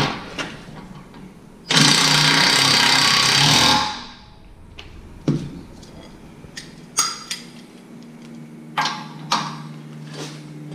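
A power tool runs hard for about two seconds, followed by several short, sharp knocks on metal parts during work on a rear suspension beam and its wheel bearings.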